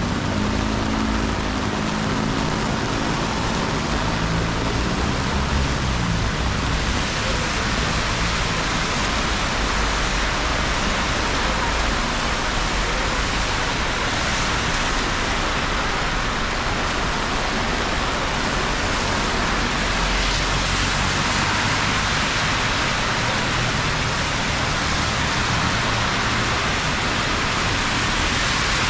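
Steady, dense hiss of rain falling. A low hum is under it at first and fades away in the first several seconds.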